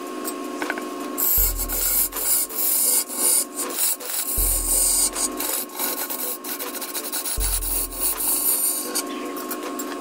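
A tool scraping and rasping against wood, over a steady machine hum with a low throb about every three seconds.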